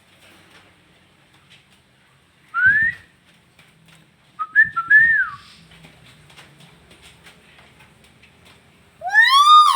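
Tame hill myna giving shrill whistled calls: a rising whistle about two and a half seconds in, a couple of short rise-and-fall whistles around five seconds, and a loud, shrill rising-then-falling call near the end.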